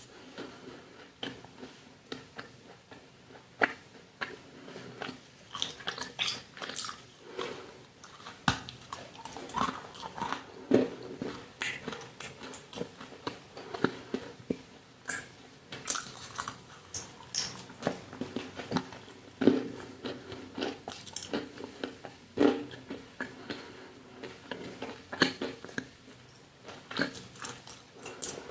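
Crunchy food being bitten and chewed close to the microphone: irregular sharp cracks and crunches, one or two a second.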